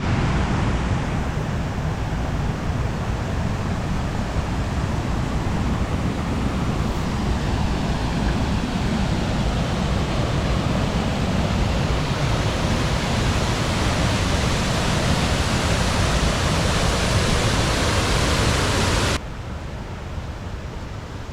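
Waterfall in spate after heavy rain: a loud, steady rush of falling water. About 19 s in it drops abruptly to a quieter, duller rush.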